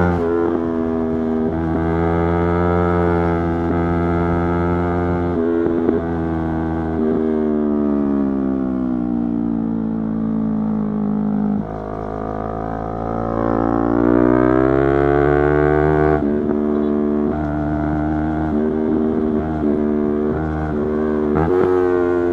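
Yamaha YZF-R3's parallel-twin engine running on the move. It holds steady revs, then falls slowly in pitch as the throttle is rolled off, climbs for several seconds under acceleration, and drops sharply at a gear change. It settles again, with a quick jump in revs near the end.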